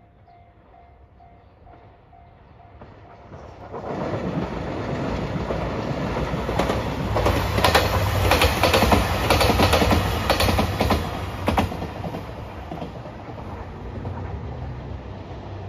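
JR Shikoku 2700 series diesel express train passing at speed. Engine rumble and wheels clicking over the rail joints build up about four seconds in, are loudest in the middle as the cars go by, then fade as it moves away.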